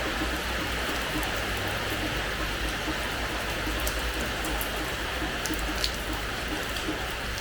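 Steady rain falling on a hard terrace floor: an even hiss, with now and then a single louder drop striking close by.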